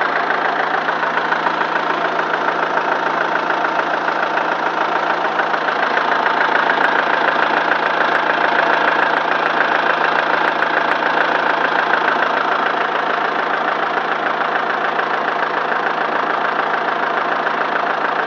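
Diesel engine of a Kubota M108S tractor running steadily at idle, during bleeding of air from its fuel injection system.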